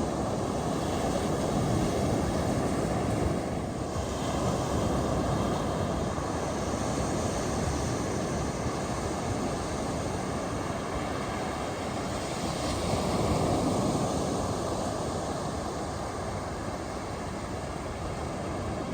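Ocean surf breaking on a beach: a steady rushing wash that swells as waves come in, with surges about three seconds in and again near two-thirds of the way through.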